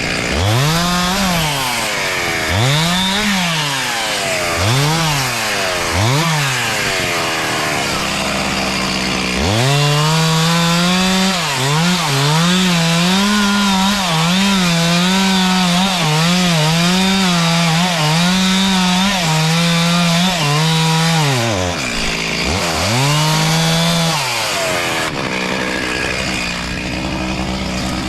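Two-stroke chainsaw blipped four times, then held at full throttle for about twelve seconds, its pitch wavering slightly as it cuts through wood. It is revved once more, then settles back to a low idle near the end.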